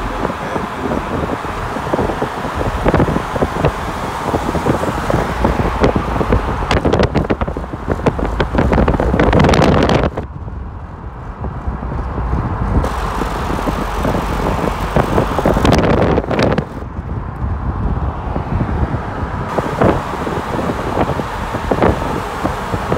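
Wind buffeting and flapping on the microphone from a moving car, over a steady low road rumble; the hiss briefly thins out twice, about ten seconds in and again near seventeen seconds.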